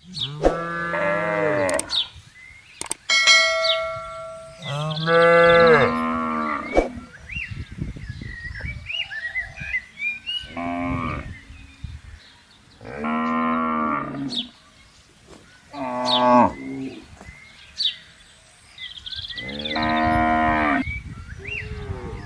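Cattle mooing repeatedly, about six separate moos of one to two seconds each, some longer and lower, some short.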